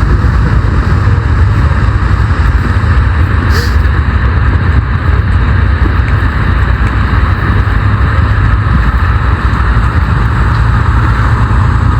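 Steady, loud road and wind noise of a vehicle in motion: a continuous low rumble with a hissing roar over it and no distinct events.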